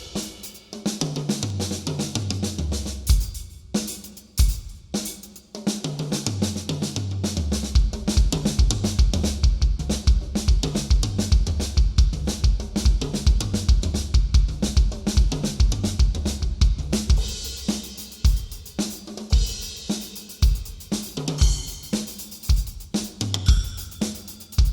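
Acoustic drum kit played solo: fast snare and tom fills running down the toms, bass drum strokes and constant cymbal and hi-hat wash, with brief breaks a few seconds in.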